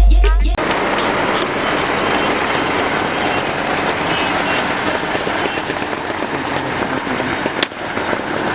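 Music cuts off about half a second in, giving way to steady motor-vehicle noise, with one short click near the end.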